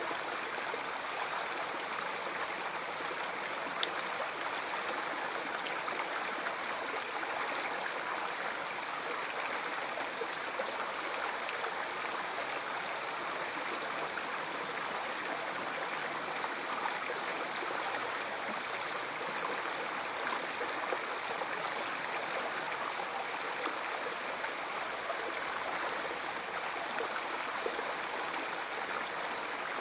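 River water flowing: a steady, unchanging rush of moving water.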